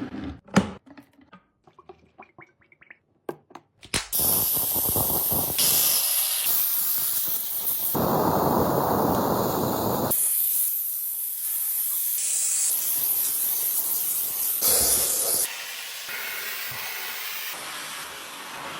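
A few light clicks and knocks, then a handheld steam cleaner jetting steam: a loud, continuous hiss starting about four seconds in, its tone changing abruptly several times.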